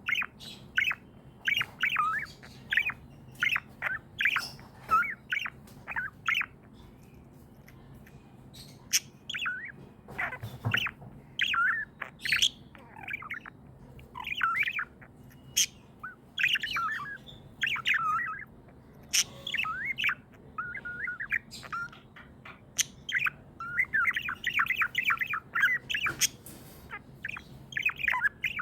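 Budgies chirping and chattering in quick, short, warbling calls, with a brief lull about a quarter of the way in and a dense burst of chatter near the end.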